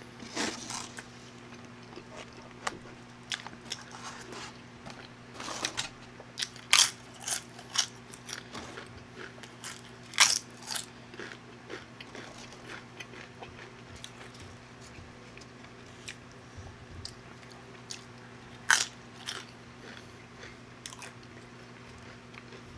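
Close-miked chewing and biting of food, with scattered sharp crunches of tortilla chips. The crunches are thickest from about five to eleven seconds in, with another loud one near the end. A faint low steady hum runs underneath.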